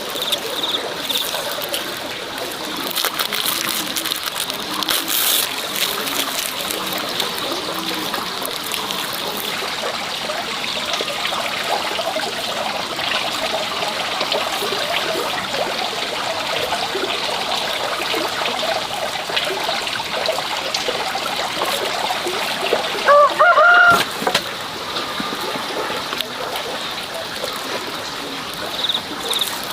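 Water running and splashing steadily, a continuous trickle and splatter. About 23 seconds in, a brief louder sound with a few short rising and falling tones cuts through.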